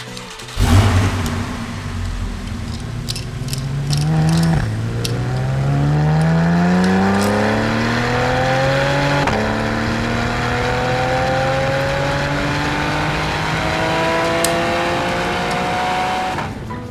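Porsche sports car engine starting up with a loud burst, then accelerating hard through the gears. Its pitch rises steadily and drops sharply at two upshifts, about four and a half and nine seconds in, before it climbs again in a higher gear.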